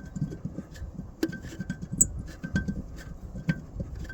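Small metallic clicks and scrapes of a bolt being threaded in by hand a few turns, with a couple of sharper ticks about a second and two seconds in.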